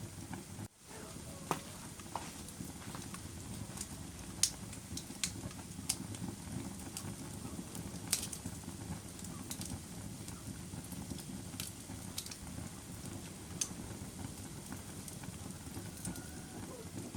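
Wood fire burning in a fireplace: a steady low rustle of flames with sharp, irregular pops and crackles every second or so. The sound cuts out very briefly less than a second in.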